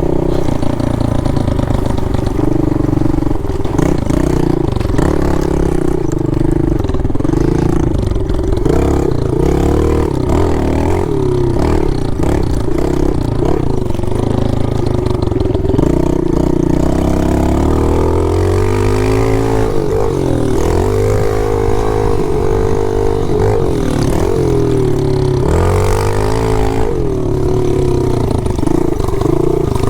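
Pit bike engine being ridden, its pitch repeatedly rising and falling as the throttle is opened and closed, with bursts of revving in the second half.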